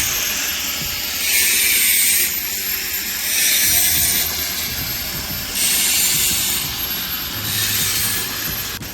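Repeated rasping, scraping strokes of a tool rubbing on a rough surface, each about a second long and coming roughly every two seconds, over a faint steady high whine.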